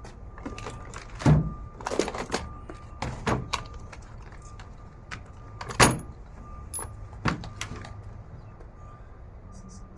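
Irregular metallic clanks and clicks from hand work on a car's engine mount as its removal begins, with two sharp knocks standing out, about a second in and near the middle.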